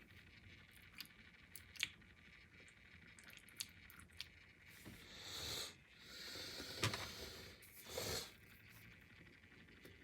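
A spoon scraping and clinking against the inside of a tin can while scooping out canned spaghetti and meatballs, with soft wet squelches; a few scattered clicks and several longer scraping swells, all fairly quiet.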